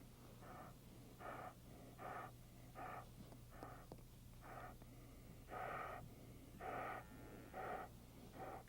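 Dog breathing hard through its nose while holding an object in its mouth: soft, regular puffs, about one a second.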